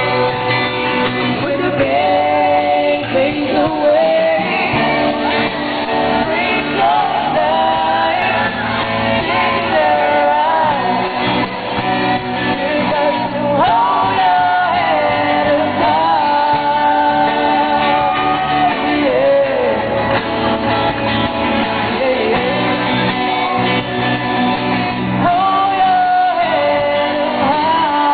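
Live band playing loudly, with a singer carrying a melody throughout.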